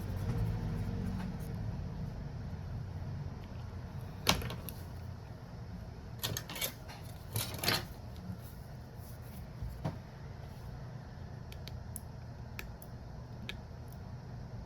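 Scattered small clicks and knocks of tools and phone parts being handled on a repair bench during a Redmi Note 7 battery replacement, the sharpest knock a few seconds in, over a steady low rumble.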